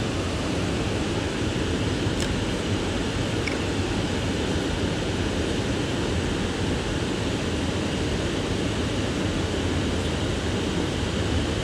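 Steady rushing noise of flowing river water, with a faint click about two seconds in.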